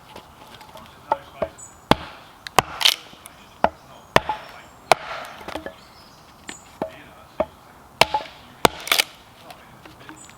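Firewood being split down for a campfire: sharp chopping strikes of a blade into wood, irregular, about one or two a second.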